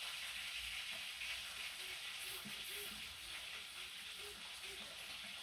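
Soft, steady scratchy hiss of a wet plaster gem-excavation block being scraped and scrubbed to free the buried gems.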